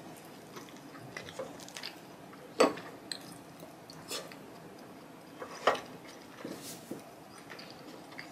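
Close-miked eating: chewing and biting on fried rice with diced beef steak, with small wet crackles. Short sharp clicks are scattered through, the loudest about two and a half seconds in and again near six seconds.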